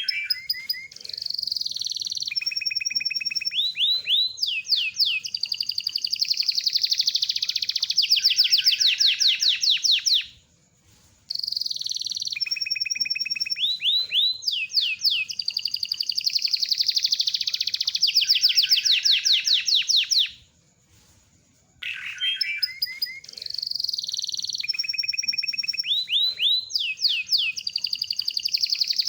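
Domestic canary (kenari loper, a long-song canary) singing a long rolling song of rapid trills and rising whistled sweeps, broken by two short silences about ten and twenty seconds in.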